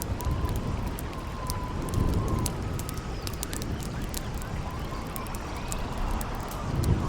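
Campfire crackling with frequent sharp pops over a steady rush of wind and water, while a thin wavering whistle of howling wind rises and falls. Low rumbling swells come about two seconds in and again near the end.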